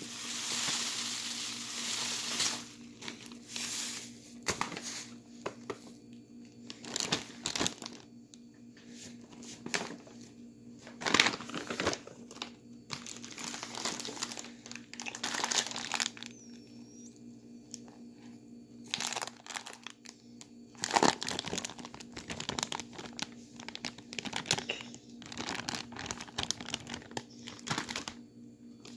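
Plastic bags crinkling as they are handled, in irregular bursts with a few sharper, louder crackles.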